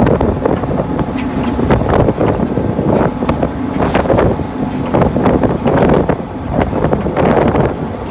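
Sentinel diesel shunter's Rolls-Royce engine running under way, heard from inside the cab, with irregular knocks and rattles and wind on the microphone. A short hiss comes about halfway through.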